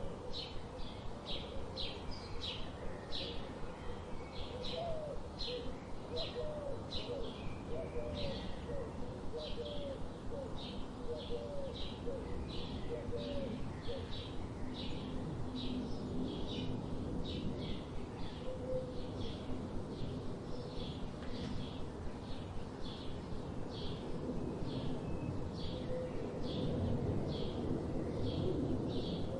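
Birds calling: one bird repeats a short high chirp about twice a second, steadily throughout, while a second, lower-pitched call gives a run of short curved notes for several seconds in the first half.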